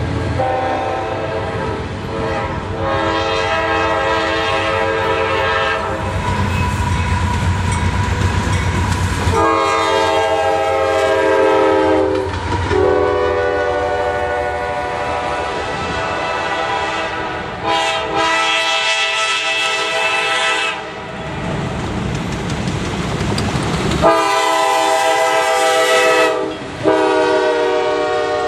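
Freight cars rolling past with a deep rumble and wheel clatter over the rail joints, while a train horn sounds a series of long blasts, several seconds each with short gaps between.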